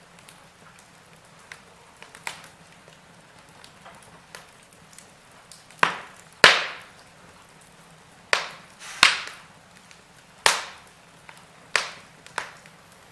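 Wood fire in a fireplace crackling: sharp pops that fade quickly over a faint steady hiss, sparse at first, then a run of louder pops in the second half, the loudest about halfway through.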